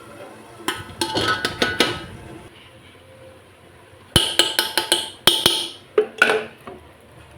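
Kitchen utensils and dishes clattering and knocking in two bursts of quick sharp clinks, one about a second in and a longer one around the middle.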